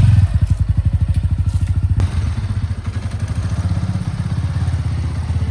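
JCB 3DX Plus backhoe loader's diesel engine running with a steady, rapid low throb, with a single sharp knock about two seconds in.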